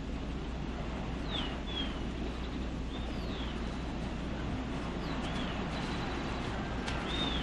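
Birds chirping in short, curved whistled notes every second or two, over a steady outdoor hiss.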